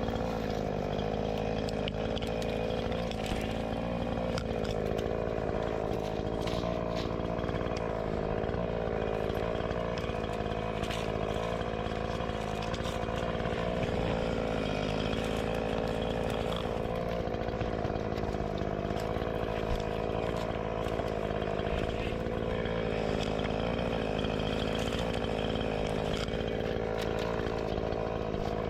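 Gas chainsaw engine running steadily at an even speed, without stopping or revving up and down.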